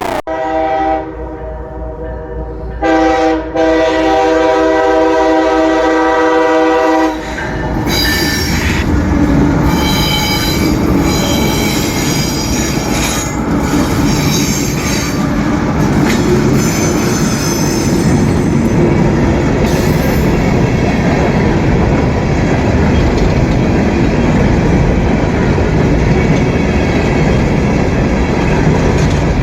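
Freight train passing close by: the locomotive's multi-chime air horn sounds two blasts, a short one and then a longer, louder one lasting about four seconds. Then the train goes by with a steady loud rumble and clickety-clack of wheels, and high-pitched wheel squeal comes and goes for the next dozen seconds.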